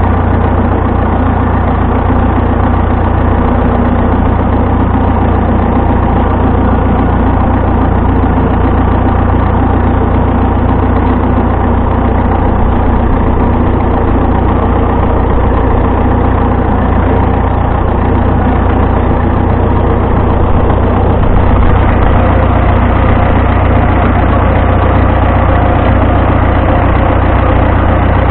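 Vintage tractor engine running steadily at constant speed, loud and close, with a heavy low rumble.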